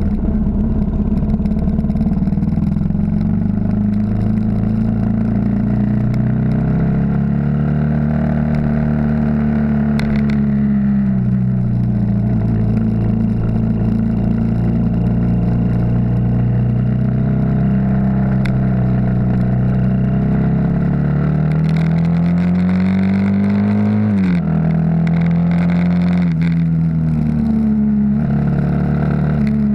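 Yamaha XT 600's air-cooled single-cylinder four-stroke engine pulling the bike along, its pitch rising and falling with the throttle. About three-quarters of the way through, the pitch drops suddenly, then climbs again.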